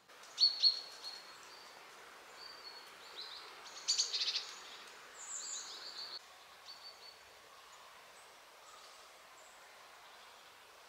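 Small birds chirping in short high calls, a burst right at the start and a busier cluster about four seconds in, then thinning out after about seven seconds, over a faint steady hiss of outdoor air.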